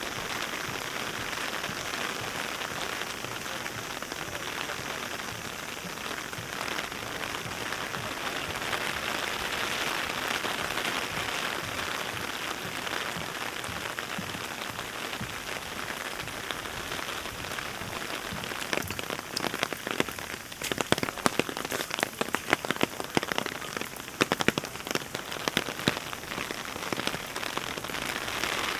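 Heavy rain falling steadily. From about two-thirds of the way in, it is joined by a dense run of sharp, louder drop impacts close by.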